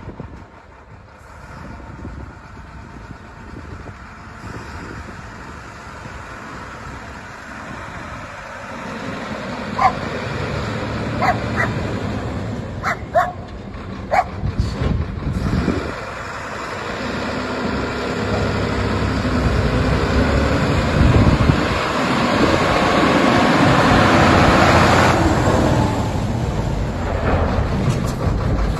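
Heavy dump truck's inline-six turbodiesel engine running, getting louder through the second half. A few short, high-pitched yelps sound about ten to fifteen seconds in.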